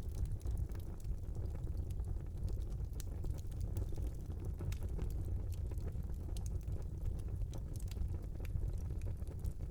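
Fire burning in a small fireplace: a steady low rumble of flames with scattered sharp crackles and pops throughout.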